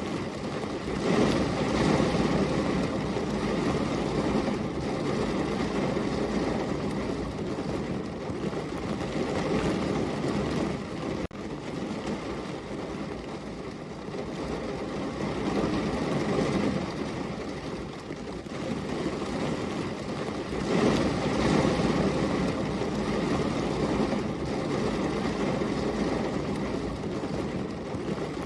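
Steady rain, a continuous even hiss that swells louder and eases off in slow waves, with a brief drop about eleven seconds in.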